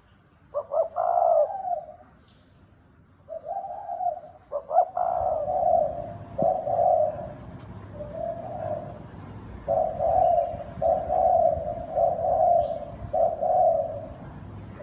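Spotted dove cooing: low, hoarse coos of about a second each, first spaced apart, then in a quicker run of six in the second half, over a low background rumble that starts about a third of the way in.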